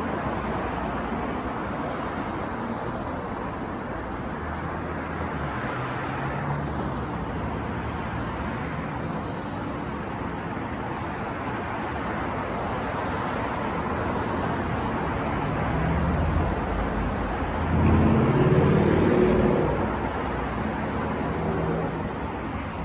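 New York street traffic: a steady wash of cars passing, with the hum of engines coming and going. About three-quarters of the way through a heavier vehicle passes close and louder, its engine hum standing out for a couple of seconds.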